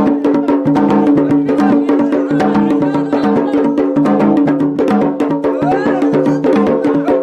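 Yemeni wedding drumming on tabl and marfa' drums, a fast, even beat of about five strokes a second, over a steady droning tone.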